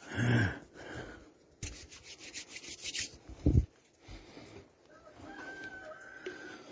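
Hands rubbing wood glue into wooden pieces: a dry, scraping rub. There is a low knock about three and a half seconds in, and a faint, held high tone near the end.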